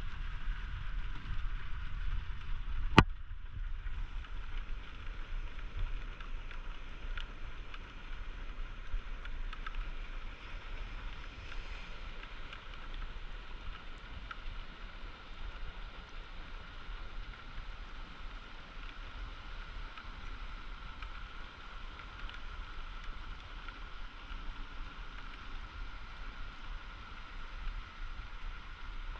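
Steady rushing of floodwater, with a low wind rumble on the microphone and one sharp click about three seconds in.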